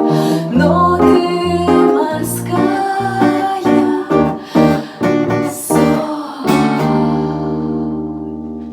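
Acoustic guitar closing a song: several strummed chords, then a final chord struck about seven seconds in and left ringing as it slowly fades out.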